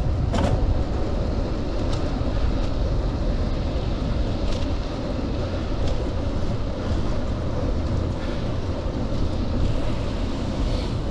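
Steady rushing wind on the microphone of a bicycle coasting fast downhill, with a few brief clicks.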